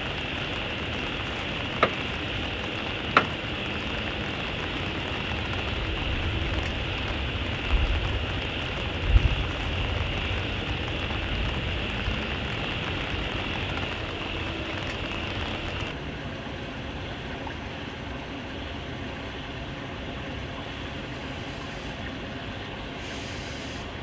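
Steady rain with a high hiss that eases about two-thirds of the way through. Two sharp clicks a couple of seconds in and two low thumps near the middle.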